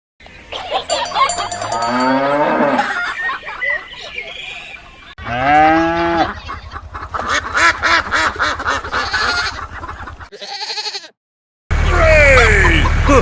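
Animal-like calls that glide up and down in pitch, sounding like mooing, over a steady low hum with rapid clicking. The sound cuts out briefly near the end.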